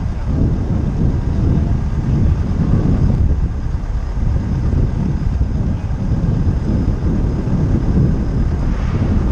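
Motorcycle engine idling with a steady low rumble while the bike stands still, mixed with city traffic.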